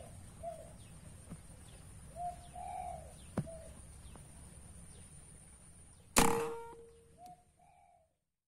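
Spotted doves cooing several times, each a short low double coo. About six seconds in comes a single loud, sharp bang that dies away over about a second, followed by another coo.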